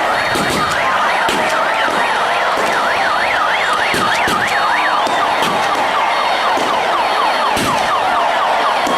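Electronic vehicle sirens sounding: a fast up-and-down yelp in the middle, then repeated downward sweeps, over a steady background with scattered sharp clicks and knocks.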